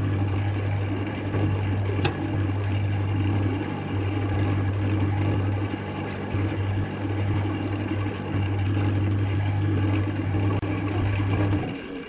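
Wood lathe's electric motor running with a steady low hum, then shutting off and dying away near the end.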